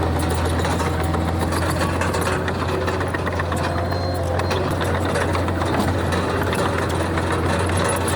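Diesel engine of a Komatsu D31PX bulldozer running at a steady, low drone, with a faint rapid clatter over it.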